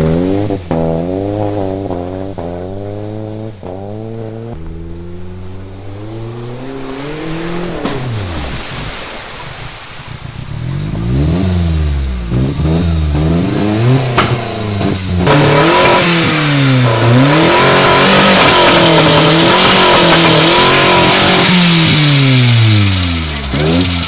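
A 1995 Mazda's Ford engine revving hard again and again, its pitch climbing and dropping as the car is driven through mud. About fifteen seconds in, a loud rushing spray of mud and water joins it for several seconds.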